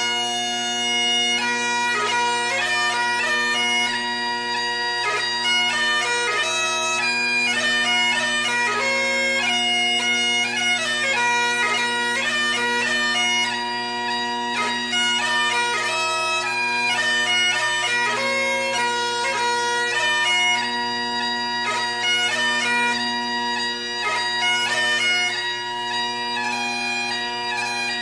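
Bagpipe music: steady drones held under a lively chanter melody.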